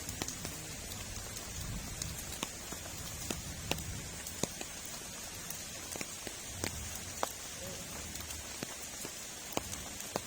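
Steady heavy rain hissing, with scattered sharp drops tapping at irregular intervals over a low rumble.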